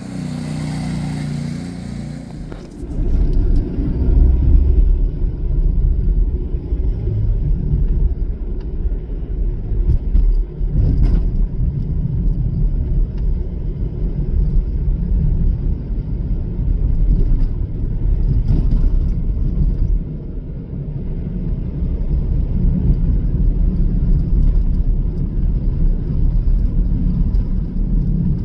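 Motorcycle engine running for the first couple of seconds, then a loud, steady low rumble of motor traffic for the rest.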